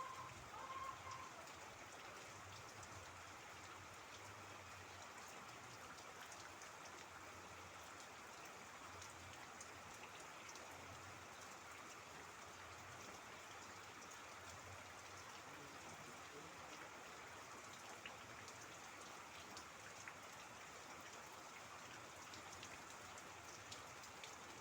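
Steady, fairly faint rain, with scattered drops ticking through a continuous hiss.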